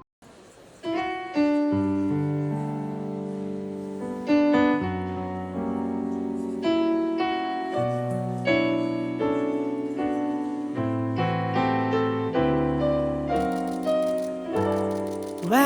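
Piano playing a slow intro of held chords, each ringing out and fading before the next, starting about a second in.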